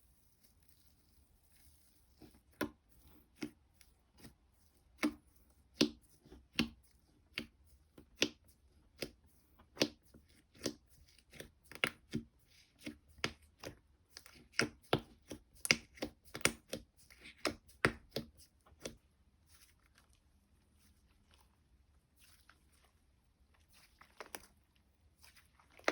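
Slime being squeezed and pressed by hand, making a run of sharp sticky pops and clicks about once or twice a second that thin out a little over halfway through, with a few more near the end.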